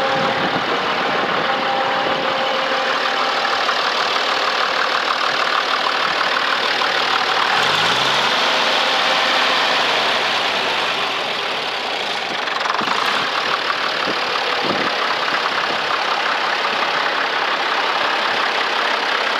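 1961 Case 930 tractor engine running steadily, its pitch rising and then falling back once about a third of the way in.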